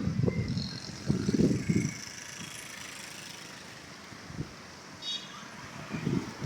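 Gusts of dust-storm wind buffeting the microphone in irregular low rumbling blasts, strongest at the start, about a second in and near the end.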